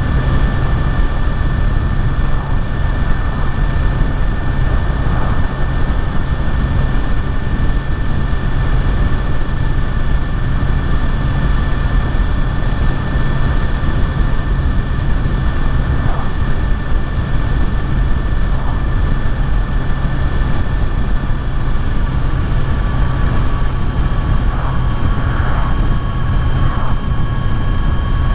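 Kawasaki Z900 inline-four engine running at a steady cruising speed on the road, under heavy wind rush on the rider's microphone. The engine note holds nearly constant throughout.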